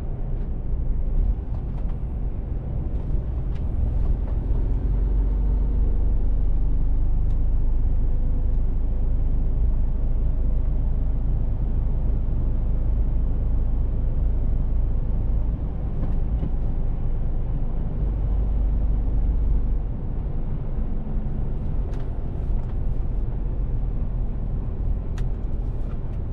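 Mercedes-Benz Actros truck driving, its diesel engine and road noise making a steady low rumble that eases off briefly about two-thirds of the way through and again near three-quarters.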